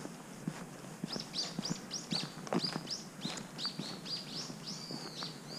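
Brown-eared bulbul calling: a rapid series of short, high, arched chirps, about three a second, starting about a second in, over a few footsteps on the path.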